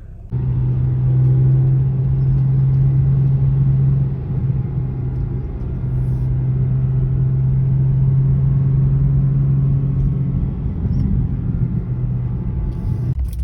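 Car engine droning at a steady pitch with road rumble, as when cruising at constant speed. It starts abruptly just after the start, eases briefly about four seconds in, and changes character around ten seconds in.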